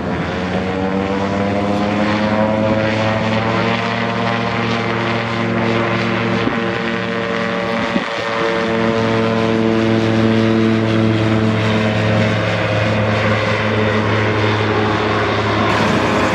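Propeller airplane engine running close by, a steady droning hum. Its pitch eases down slightly over the first couple of seconds, then holds steady, with a brief dip about halfway through.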